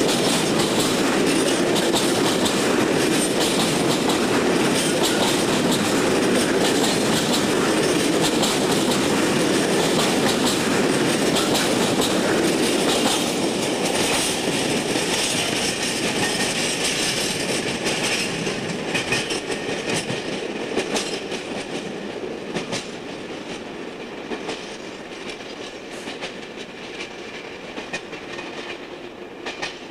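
Freight train of empty aggregate hopper wagons rolling past, steel wheels clacking rhythmically over rail joints and pointwork. The sound fades steadily through the second half as the tail of the train draws away.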